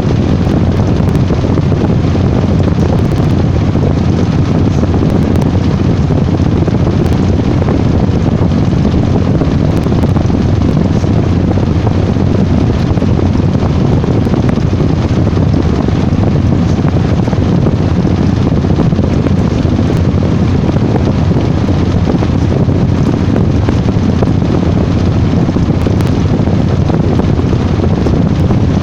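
Washing machine running with a loud, steady rumble that does not change.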